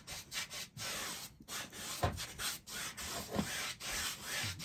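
Paintbrush scrubbing paint onto a stretched canvas in uneven rubbing strokes.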